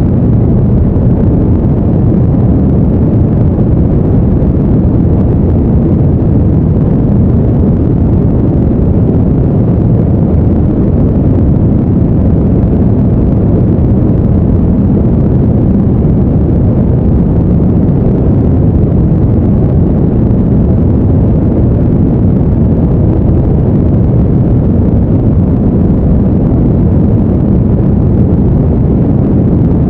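Steady, deep rumbling noise with no tones or rhythm, unchanging throughout: a brown-noise-style sleep backing track.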